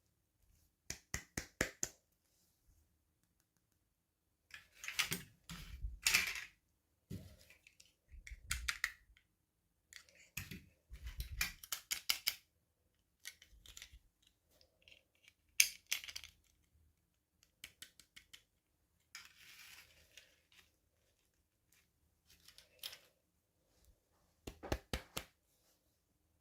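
Hands unboxing small plastic doll toys and their packaging: intermittent crinkles, rustles and sharp clicks and taps, with dead silence between them. A quick run of about six clicks comes a second in, and there is one sharp click about fifteen seconds in.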